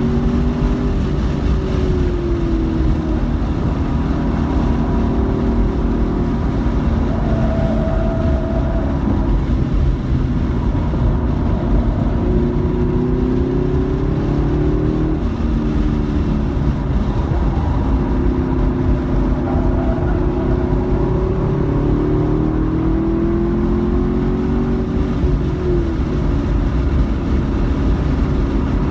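Car engine at speed on a race track, heard from inside the cabin: its pitch climbs as the car accelerates and drops sharply about three times, over steady road and wind noise.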